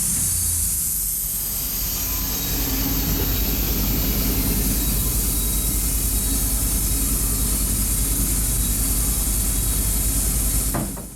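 Wood-Mizer bandsaw sawmill running and sawing a slab off a walnut log: a steady mechanical noise with a low, even pulse, dying away just before the end.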